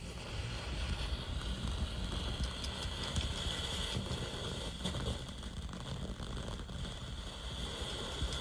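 A lit firework burning with a steady hiss, with scattered small crackles.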